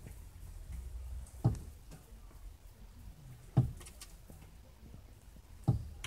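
A male northern cardinal striking a car's side mirror and window, three sharp knocks about two seconds apart, heard from inside the car: the bird is fighting its own reflection.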